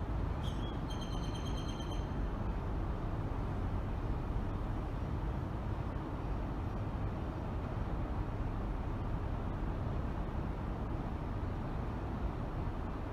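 Steady noise of a car driving, a low rumble of road and engine. About half a second in, a brief high-pitched tone sounds for about a second and a half.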